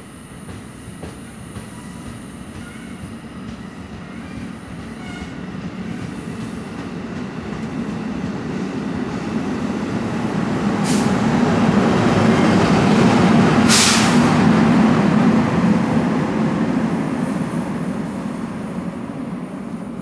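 NJ Transit push-pull train of bilevel coaches departing, with an ALP-46A electric locomotive pushing at the rear. The rumble of wheels on rail and the locomotive's hum build up to a peak as the locomotive passes, with two brief sharp noises at the loudest point, then fade as the train pulls away.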